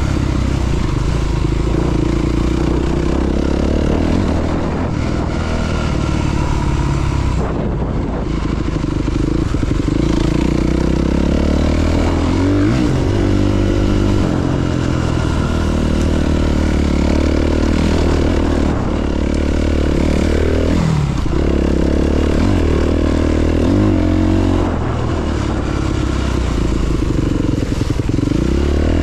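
Honda CRF300RX's single-cylinder four-stroke engine running under way off-road, its revs rising and falling several times as the throttle is worked.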